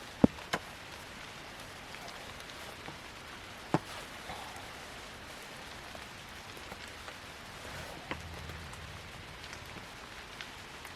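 Steady rain falling, with a few sharp, isolated taps: the loudest just after the start, another about four seconds in and a smaller one near eight seconds.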